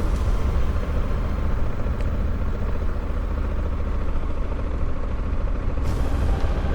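Honda Africa Twin 1100's parallel-twin engine running, heard as a steady low rumble.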